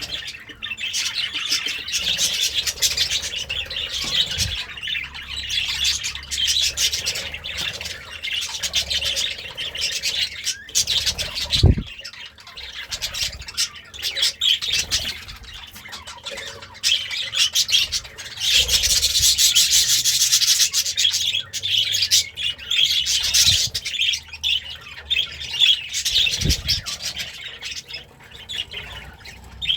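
Budgerigar chattering and warbling without pause: a fast, scratchy stream of chirps and squawks that swells loudest about two-thirds of the way through. A few dull low thumps break in, one about twelve seconds in and another near the end.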